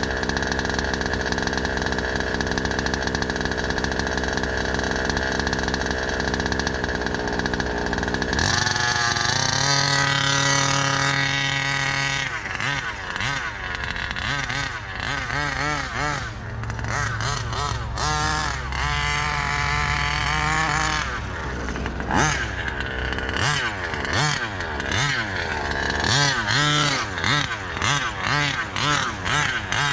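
New ESP two-stroke gas engine for a 1/5-scale RC car, being run in on its third heat cycle. It holds a steady high rev for the first eight or so seconds, then drops to a lower idle and is revved up and down repeatedly, with quick short blips near the end.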